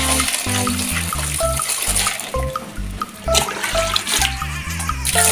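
Water running and splashing as a toy car is washed clean, over background music with a steady bass line.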